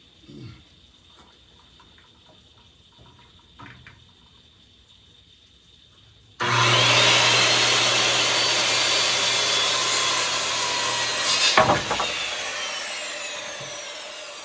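Corded electric power saw cutting a 2x4. It starts abruptly about halfway in and runs steadily through the wood for about five seconds, with a sharp burst as the cut finishes. The motor is then released and the blade spins down with a falling pitch. Faint handling clicks come before it starts.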